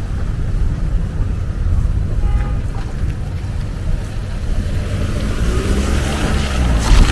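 City street traffic: a car passes with a heavy low rumble, its engine note coming through more clearly from about five seconds in, with a couple of knocks near the end.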